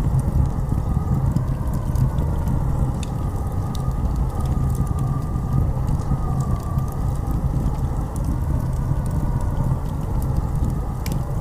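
Blizzard wind blowing steadily, a deep rumble with a faint howl that slowly rises and falls in pitch, and scattered faint ticks throughout.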